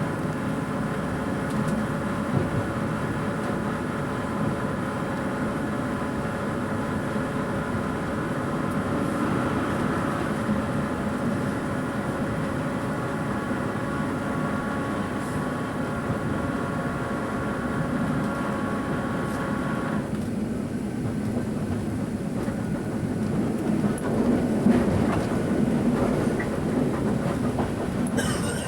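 Interior of a 2EPB electric multiple unit under way: the worn English Electric traction motor gives a steady whine over the rumble of wheels and track. About two-thirds of the way through the whine cuts off suddenly, leaving running noise with some knocks from the track.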